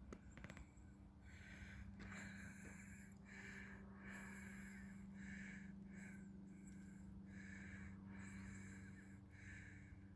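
Faint, even breathing of a person walking, heard close to a phone microphone, about one breath every 0.7 s, over a steady low hum.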